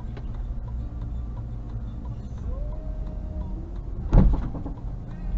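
Steady low rumble of a car's road and engine noise, with one sharp, loud thump about four seconds in.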